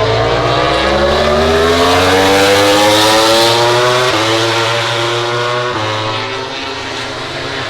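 MotoGP racing motorcycle accelerating hard, its engine note climbing steadily, then dropping sharply at two upshifts, about four and about six seconds in. It is loudest around the middle and eases a little toward the end.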